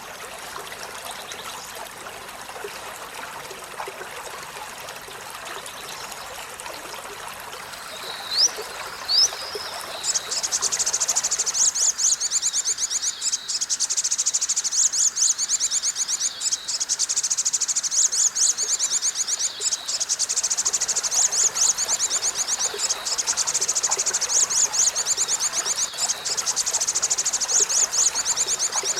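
Olive-backed sunbird singing: two quick rising chirps about eight seconds in, then from about ten seconds a long, very fast, high-pitched trill. Running water sounds underneath.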